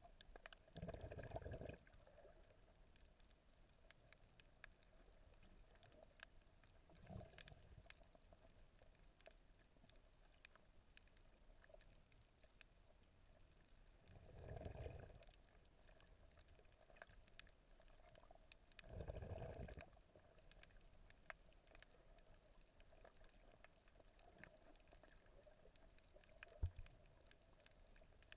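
Near silence: faint muffled underwater sound of a snorkelling camera, with scattered faint clicks throughout and a few short low swishes of water moving past, about five in all.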